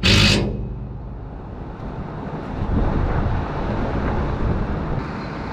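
A short, loud burst of tightening on the gearbox bolts of a skid steer brush cutter at the very start, the last of a series, followed by a low, uneven rumble.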